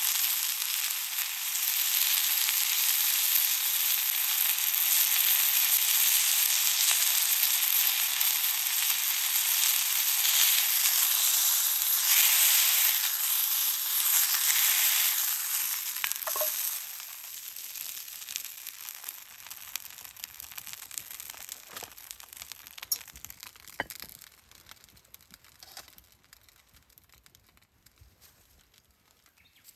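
Food sizzling as it fries in a pan, a steady hiss that dies away a little over halfway through, leaving scattered faint crackles and ticks.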